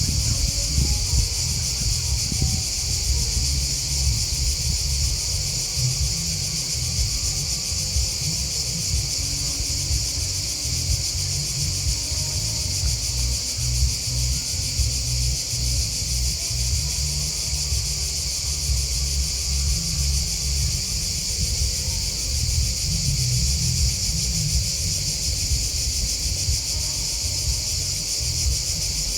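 Grasshoppers and crickets chirping in a steady, high-pitched chorus, with a low, uneven rumble underneath.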